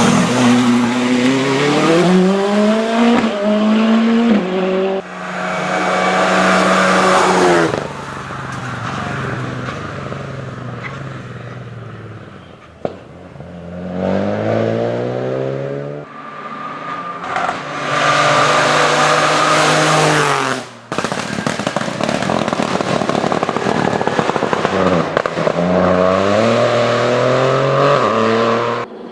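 Race car engines accelerating hard at full throttle. The pitch climbs and drops back with each gear change, then falls away as one car lifts off. The sound switches abruptly several times from one car to the next.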